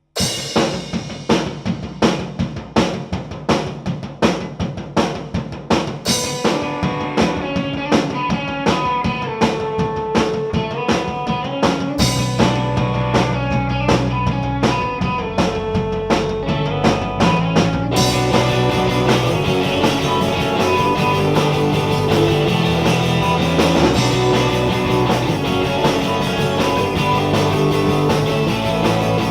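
Live rock band playing an instrumental build-up: drums beating about twice a second under electric guitar notes, the bass guitar coming in about twelve seconds in, and crashing cymbals with the full band from about eighteen seconds in.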